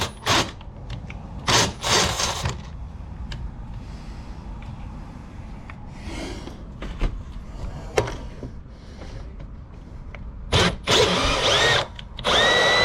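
Power drill running in short bursts: several quick bursts at the start, a few clicks in the middle, then two longer runs near the end with a motor whine that rises as it spins up.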